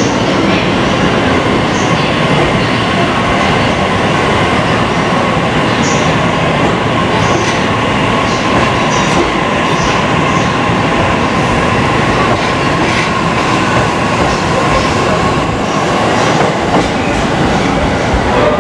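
E655 series 'Nagomi' electric train rolling past close by along the platform track, a steady rumble of wheels on rail. A high whine holds through most of it and fades out near the end.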